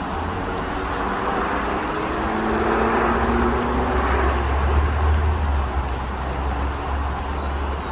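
A road vehicle passing by: a steady rumble with a faint engine hum that swells to its loudest about five seconds in, then eases off.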